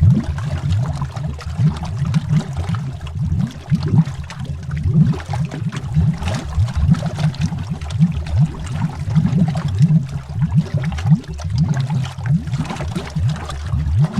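Bubbles rising and gurgling underwater, a continuous stream of low, rounded bloops, many overlapping each second.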